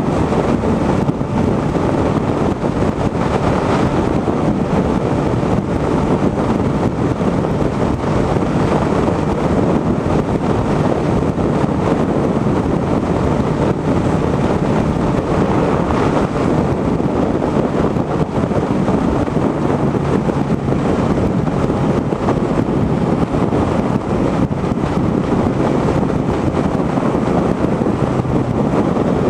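Motorcycle riding steadily at speed, its engine and road noise buried under heavy wind noise on the microphone.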